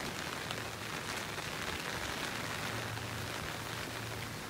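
Steady rain falling, an even hiss with a few faint drops ticking through it.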